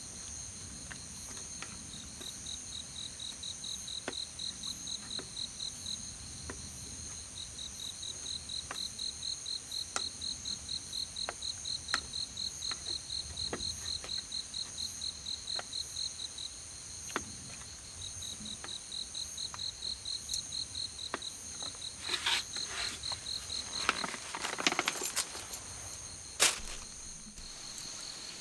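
Crickets and other insects calling together: a pulsed chirp repeats about four times a second in long runs over a steady, high, continuous trill. Sharp clicks sound here and there, and there is a short burst of rustling near the end.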